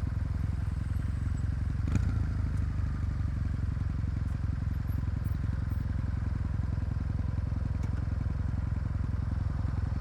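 Kawasaki W800's air-cooled parallel-twin engine running steadily with no revving, with a brief click about two seconds in.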